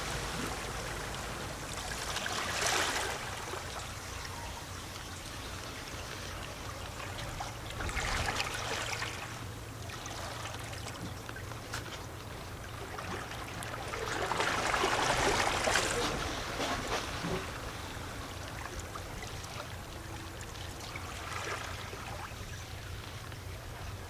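Small sea waves lapping and gurgling against shoreline rocks, with a sloshing wash that swells and fades four times, the loudest a little past halfway.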